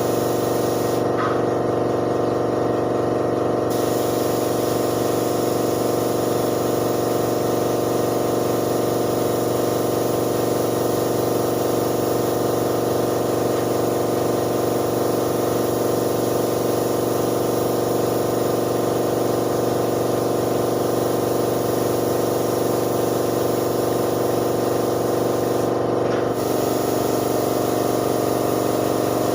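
Spray gun hissing over a steadily running air compressor motor during spray painting. The spray hiss drops away for a couple of seconds about a second in, and again briefly near the end.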